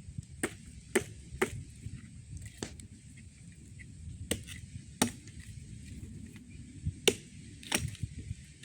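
Axe chopping wood: about eight sharp strikes at uneven intervals, a few coming in close pairs.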